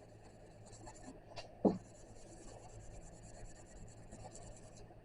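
Felt-tip Sharpie marker rubbing and scratching faintly over a bare steel door panel, marking up the dented and low spots that need shrinking, with a soft knock about a second and a half in.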